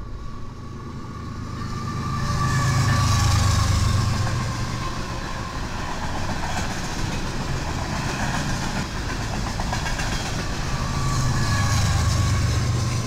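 A train running past close by: a steady rumble and rail noise with a faint high ring, growing louder about two seconds in and again near the end.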